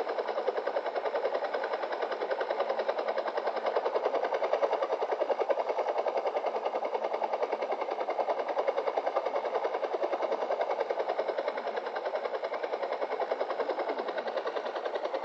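Helicopter rotor chopping steadily in a rapid, even pulse.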